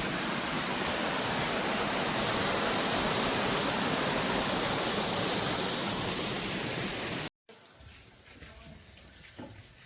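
Waterfall close by: a loud, steady rush of falling water. It cuts off suddenly about seven seconds in, leaving quieter outdoor ambience with a few faint clicks.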